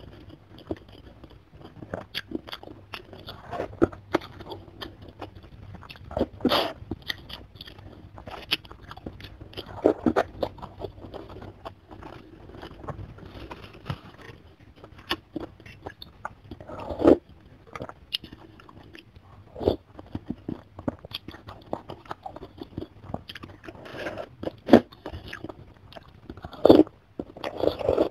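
Close-miked eating of chicken soto with chicken feet: irregular wet chewing and biting with clicky mouth sounds and a few louder bites, and a slurp of glass noodles near the end.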